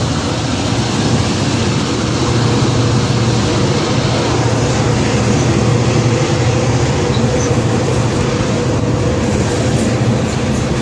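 New York & Atlantic Railway freight cars rolling past close by: a steady, loud rumble of steel wheels on rail.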